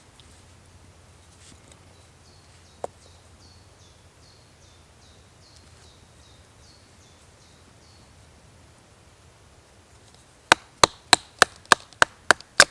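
A tool striking wood about eight times in quick succession near the end, sharp and loud, like chopping or knocking on wood. Earlier a bird calls faintly with a string of short repeated high notes, and there is one small click.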